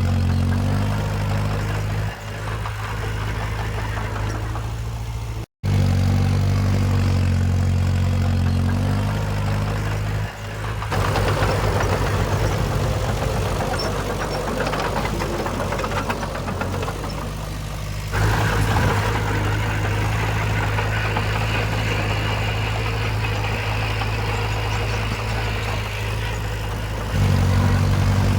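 Diesel engines of earthmoving machines (bulldozer and dump trucks) running at a steady low throttle. The sound changes abruptly several times, with a brief dropout about five and a half seconds in.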